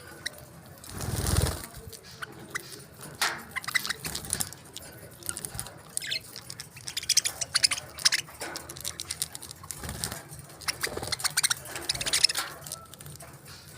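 Small pet parrots chirping, with many sharp clicks and taps throughout and a brief rush of noise about a second in.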